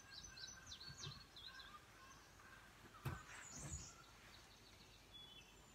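Faint bird chirps and short whistles, with a single sharp knock about three seconds in and a softer bump just after it.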